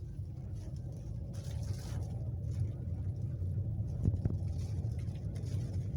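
Low steady rumble of strong hurricane wind around a car, heard from inside, with a hissing gust about a second and a half in and a short knock about four seconds in.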